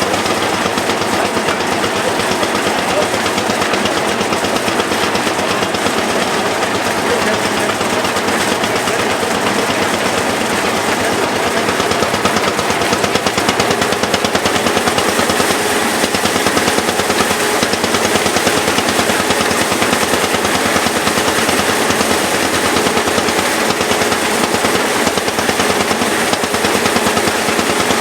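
Lanz Bulldog single-cylinder two-stroke hot-bulb engine running steadily with its rapid, even knocking beat, driving a belt-driven threshing machine whose faint steady hum lies under it.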